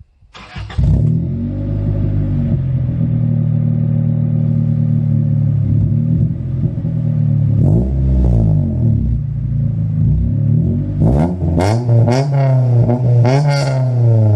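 1992 Honda Civic engine breathing through an eBay header-back exhaust with a weld-on Magnaflow muffler. It starts about half a second in and idles steadily. It is revved once near the middle, then blipped several times in quick succession near the end.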